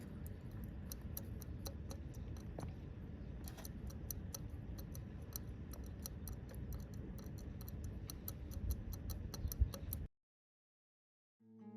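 Fast, faint, even ticking over a low rumble, which cuts off to silence about ten seconds in.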